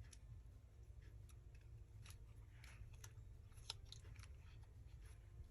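Faint, scattered snips of small scissors cutting around a hole in a paper tag, the blades struggling to get through.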